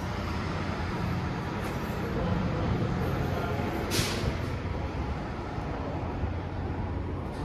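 Steady low hum of a light-rail train standing at the station, with a short sharp hiss about four seconds in.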